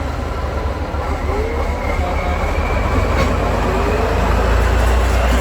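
Heavy 8x8 trial truck's engine running hard under load: a deep steady rumble with a faint whine gliding in pitch, the rumble swelling near the end.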